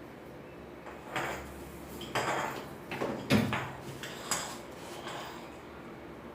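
Metal stove parts being handled: a few clanks and rattles over about four seconds, the loudest near the middle.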